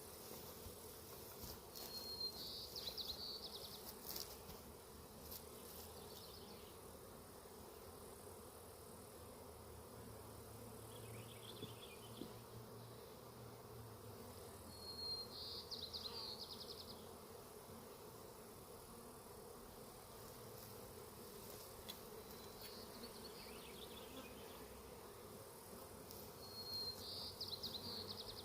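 Honeybees buzzing in a faint, steady hum. A short high trilling call comes three times, about twelve seconds apart.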